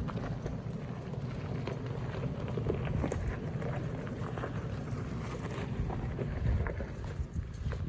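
Off-road vehicle, a 2018 Toyota 4Runner TRD Off-Road, moving over a rough trail: a steady low rumble with scattered clicks and knocks of stones, and wind on the microphone.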